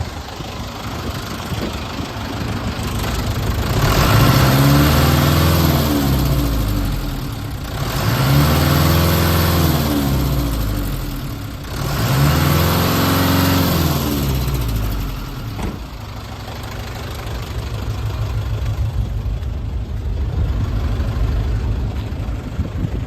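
Mitsubishi Canter's 4D35 four-cylinder diesel engine idling, then revved up and let fall back three times, each rev lasting about four seconds, before settling back to a steady idle.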